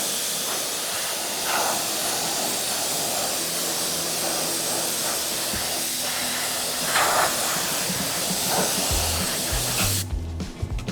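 Steady hiss of contact adhesive being sprayed onto seat foam, cutting off abruptly about ten seconds in. Background music comes in partway through and is loud by the end.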